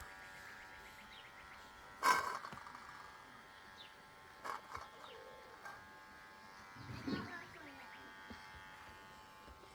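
A steady, high buzzing hum, with a few short sharp sounds over it, the loudest about two seconds in.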